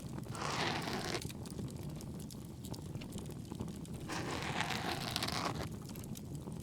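Ear-cleaning ASMR: two scratchy, crinkly strokes of an ear pick in the ear, each about a second long, about half a second in and about four seconds in. Under them runs a steady crackling bonfire.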